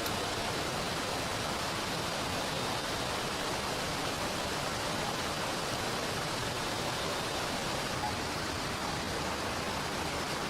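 Steady, even rush of heavy rain falling together with a flowing river.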